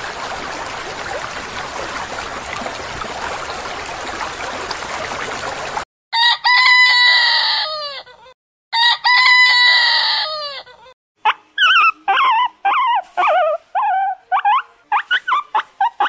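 A steady rushing noise cuts off abruptly about six seconds in. A rooster then crows twice, each crow about two seconds long and falling in pitch at the end. A quick run of short chirping calls follows, rising and falling in pitch.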